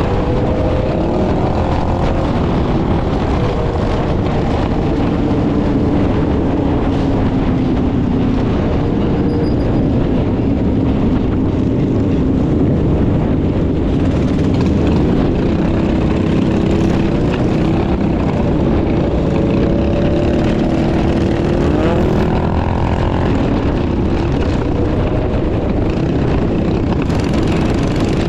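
Mini bike engines running during a group ride, their pitch rising and falling as the riders throttle up and ease off, under a steady heavy rumble of wind on the microphone.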